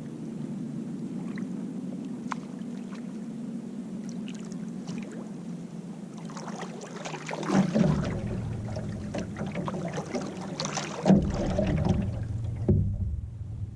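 A canoe being paddled: water lapping and splashing around the hull, with ticks from the paddle. The strokes grow louder about halfway through and again near the end.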